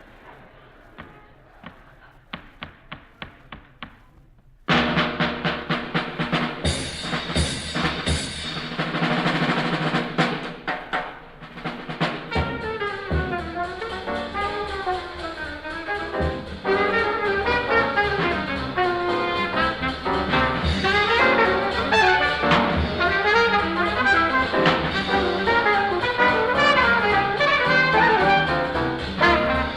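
A row of regular clicks counts off the tempo, then about five seconds in a bebop jazz group comes in loudly with drum kit and cymbals. From about twelve seconds a trumpet and saxophone play a fast, winding melody over the rhythm section.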